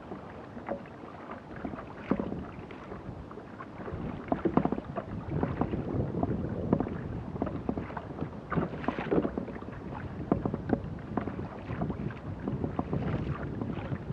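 Water splashing and slapping against a kayak hull in irregular bursts, with wind buffeting the microphone.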